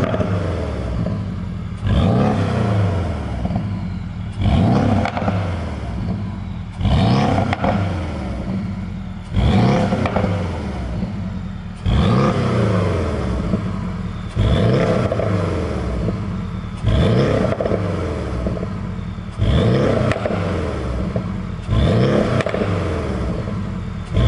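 Porsche 718 Boxster S turbocharged flat-four, through an aftermarket dual-valve performance exhaust, revved about ten times in a row. Each rev comes roughly every two and a half seconds, jumping up sharply and then falling away in pitch.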